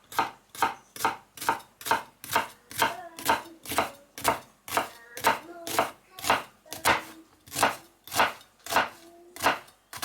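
Knife chopping on a cutting board in an even rhythm, about two strokes a second.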